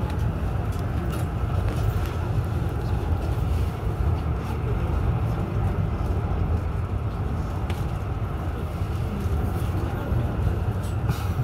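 Steady low rumble inside an AREX commuter train running at speed, from the wheels on the rails and the running gear, with a few faint clicks.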